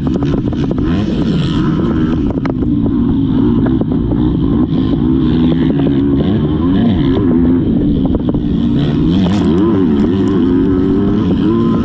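Motocross dirt bike engine running hard, its pitch rising and falling again and again as the throttle opens and closes, with scattered sharp knocks.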